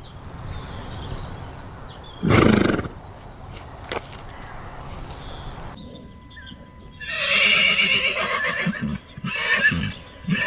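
Horses: a short loud blow about two seconds in, then a horse whinnying, one long call followed by two shorter ones.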